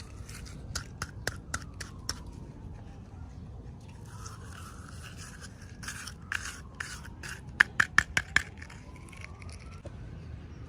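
Hands handling small plastic packaging or toy pieces: scraping with sharp clicks, a few in the first two seconds and a quick run of louder clicks about three quarters through.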